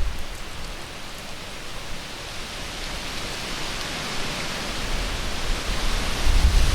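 Wind rushing through trees, a steady leafy hiss that swells as a gust builds. Low wind buffeting on the microphone drops away at the start and returns strongly near the end.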